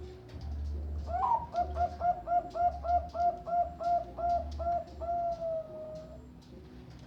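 Zebra dove (Bangkok-type perkutut) singing: a quick run of about a dozen short cooing notes, roughly four a second, ending in one long drawn-out coo that falls slightly in pitch.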